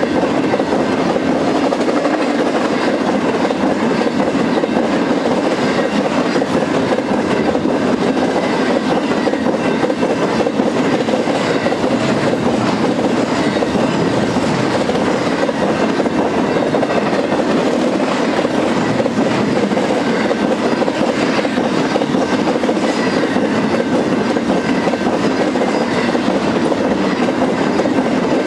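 Freight cars of a long intermodal trailer train rolling past close by: a steady rumble and clatter of steel wheels on rail that does not let up.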